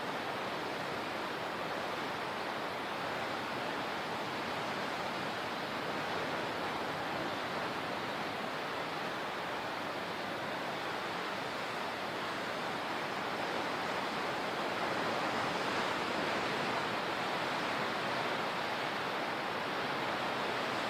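Steady rushing water, an even hiss that stays nearly constant, with only a slight rise in level a little past the middle.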